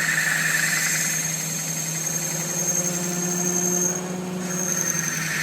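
A workshop machine running steadily, with a low hum and a high whine; the whine drops out briefly about four seconds in.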